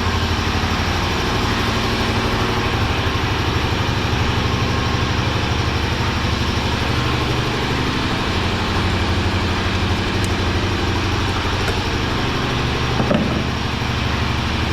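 Shop air compressor running steadily, an even, unbroken mechanical drone.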